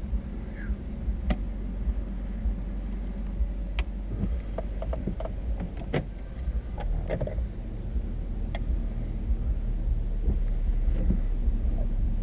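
A car heard from inside the cabin: a steady low rumble that grows a little louder in the second half, with scattered sharp ticks and taps at irregular moments.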